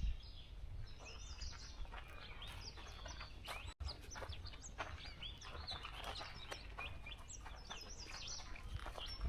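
Several songbirds chirping and singing at once, with many short, high notes overlapping throughout.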